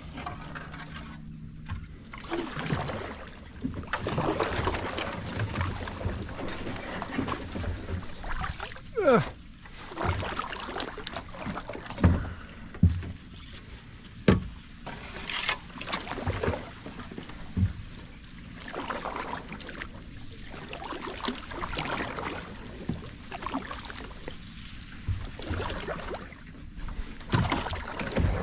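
A kayak being paddled: paddle strokes dip and splash in the water every second or two, with a few sharp knocks along the way.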